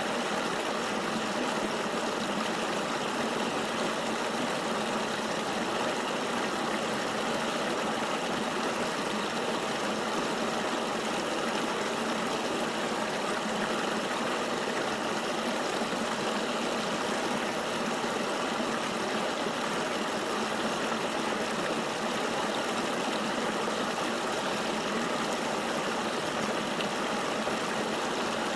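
River water flowing in a steady, even rush, with no breaks or changes.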